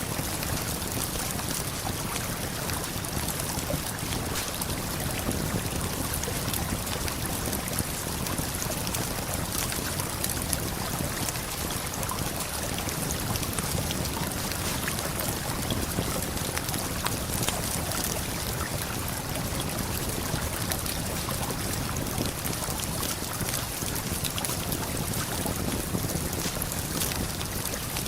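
Steady rushing of a waterfall and flowing river, an even wash of water noise, with faint scattered crackles of a campfire through it.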